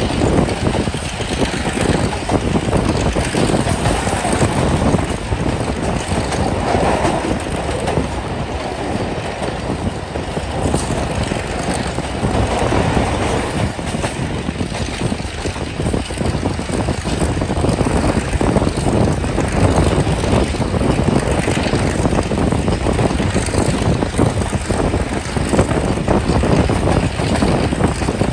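Passenger train running over a canal railway bridge: a steady loud rumble of wheels on the rails, thick with quick clatter.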